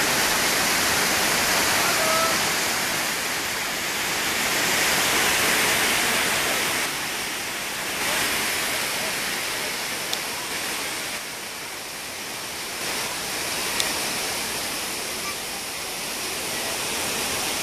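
The Manavgat waterfall's water rushing steadily, an even wash of falling-water noise that swells and eases a little. Two faint clicks come through, one about ten seconds in and one a few seconds later.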